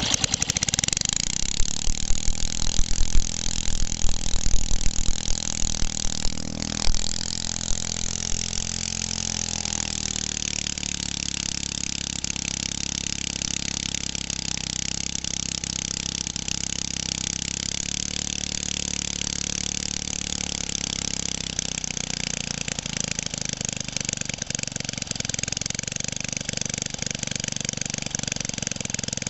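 1969 Briggs & Stratton single-cylinder engine of about 2 hp, driving a water pump, running just after a start: loud and uneven for the first several seconds, its speed dropping about seven and again ten seconds in, then running steadily.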